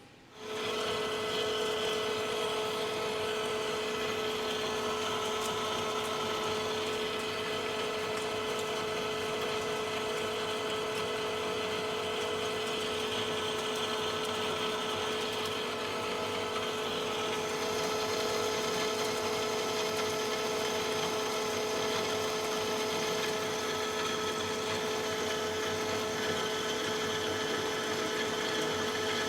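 Manual lathe starting up a fraction of a second in and running steadily with a strong gear whine while turning a steel plate with a fresh carbide insert; the higher tones of the cut change about halfway through.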